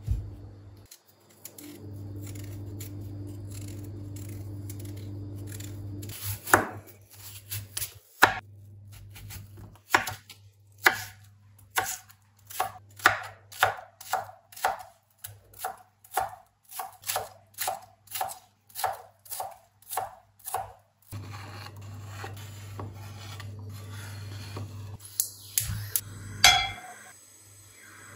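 Knife chopping on a cutting board in steady strokes, about two a second, for roughly fifteen seconds, over a steady low hum.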